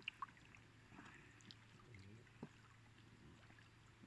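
Near silence: faint background with a low hum and a few soft clicks.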